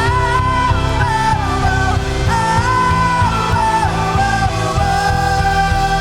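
Live worship band playing with a singer holding long notes that shift pitch every second or so, over sustained chords and a steady bass and drum beat.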